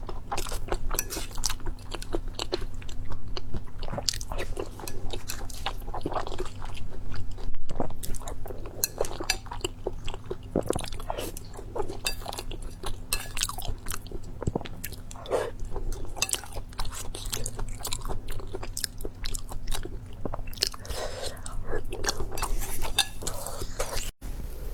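A person chewing and biting food close to the microphone: a dense run of small irregular clicks and crunches, over a low steady hum.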